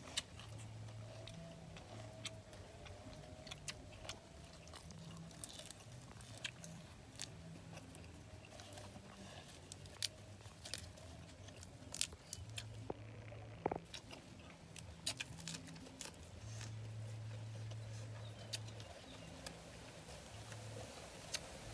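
Close-up chewing and lip-smacking of people eating cooked duck organs with fresh lettuce, with many scattered sharp mouth clicks.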